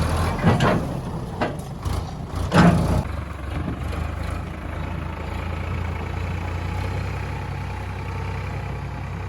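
Heavy diesel engine running steadily, with a few sharp knocks and clatters in the first three seconds, the loudest about two and a half seconds in.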